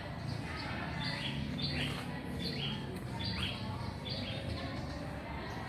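A small songbird calling loudly: a rapid series of short, sharp notes, each sweeping down in pitch, repeated about one to two times a second and stopping about four seconds in. A steady low rumble sits underneath.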